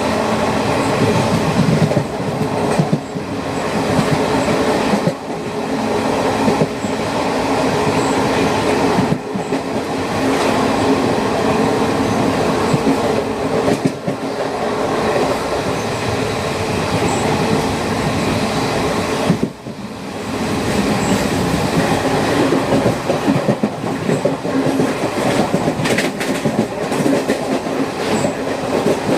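A moving train's wheels running on the rails: a steady rumble with repeated knocks from the rail joints. The sound dips briefly about two-thirds of the way in.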